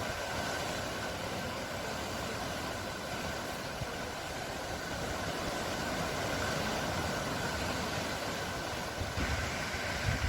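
Sea waves washing on the shore: a steady rushing noise, with a faint steady high tone underneath and some low rumbling near the end.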